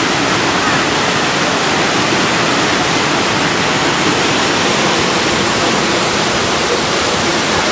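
Heavy rain pouring down, a loud, steady rush of water noise with no letup.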